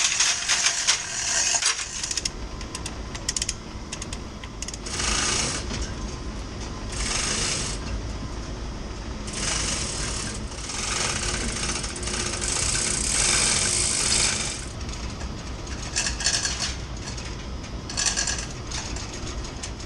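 Metal lifting chain of the rigging rattling and clicking in repeated bursts of one to two seconds, over a steady low hum.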